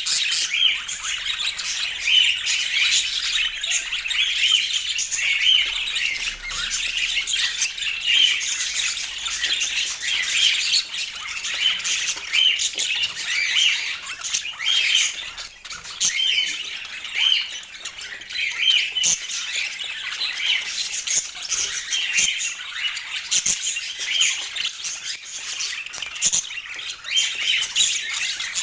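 Budgerigars chattering without a break, many short high calls packed closely together.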